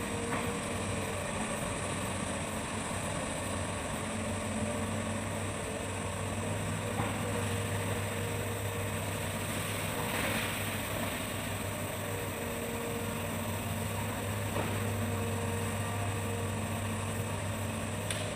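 Hitachi excavator's diesel engine running steadily with a constant low hum.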